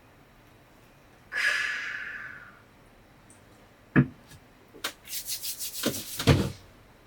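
Objects being handled at close range: a short hiss about a second in that fades away, then a sharp knock, then a quick run of rubbing, scraping strokes with a couple of heavier thumps near the end.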